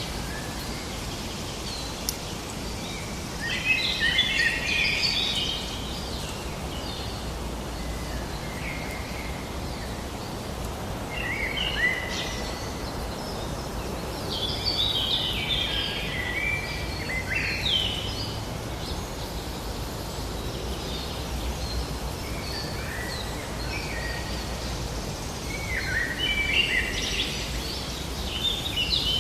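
Songbirds singing in short phrases of quick, varied high notes, one phrase every few seconds, over a steady low background noise.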